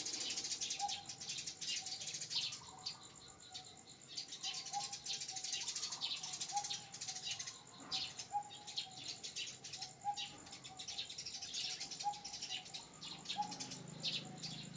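Birds chirping and twittering, with a short, lower note repeating about once a second.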